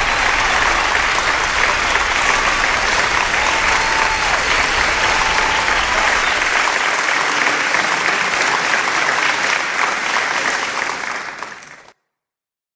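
A crowd applauding with dense, steady clapping that fades away and cuts off near the end.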